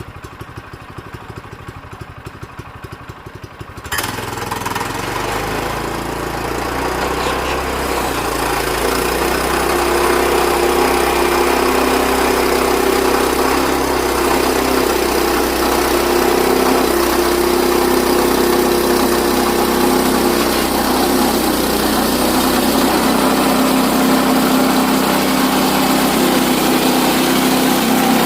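Sawmill's small gasoline engine idling, then throttled up sharply about four seconds in and running on steadily at high speed, a bit louder over the next few seconds as the mill gets to work.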